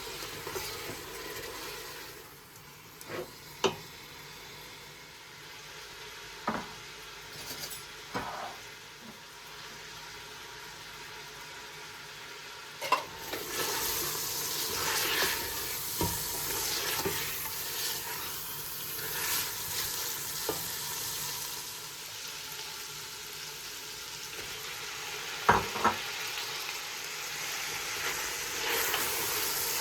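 Food sizzling as it fries in a pan, with a few sharp knocks of a utensil against the pan as it is stirred. The sizzle grows louder about halfway through.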